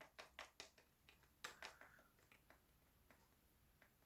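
Near silence, with a few faint short clicks in the first two seconds.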